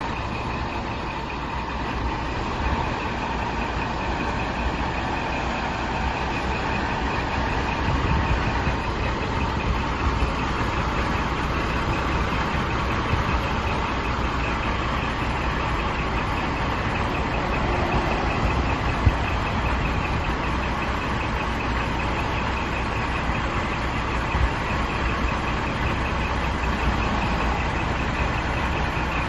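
Scania R480 truck's diesel engine running steadily, with a single brief click partway through.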